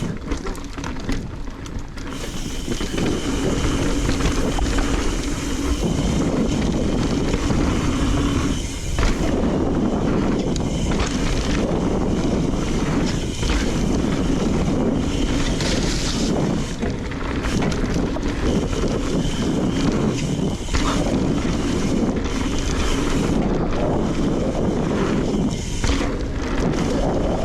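Wind rushing over the camera microphone together with the rumble of a mountain bike rolling fast down a rough downhill trail. The noise is loud and steady, with brief dips now and then.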